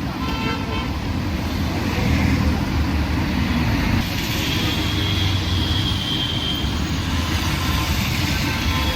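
Busy city street traffic: the steady rumble of engines and tyres from vehicles passing on the road, with a brief pitched sound, likely a horn, just after the start.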